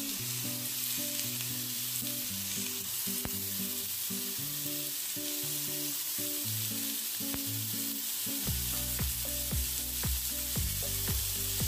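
Oiled chicken pieces on skewers sizzling steadily in a hot grill pan, the fresh sear of raw meat on hot metal. A few light clicks come in near the end.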